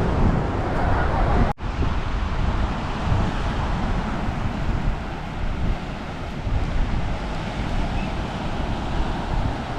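Seaside ambience: wind buffeting the microphone over a steady wash of surf and distant road traffic. The sound cuts out for an instant about one and a half seconds in.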